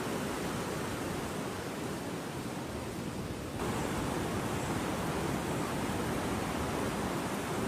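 Steady rushing of floodwater, a dense noise with no pauses, which turns abruptly brighter about three and a half seconds in.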